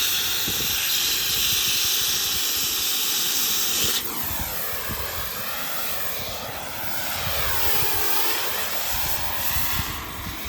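Oxy-fuel gas cutting torch hissing steadily as it cuts through a steel excavator track chain link. About four seconds in the hiss drops abruptly and carries on quieter, with a slowly sweeping, wavering tone.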